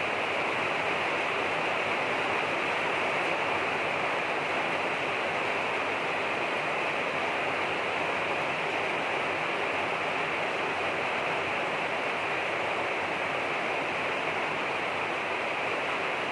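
Steady rainfall: an even, unbroken hiss of rain, with no separate drops or thunder standing out.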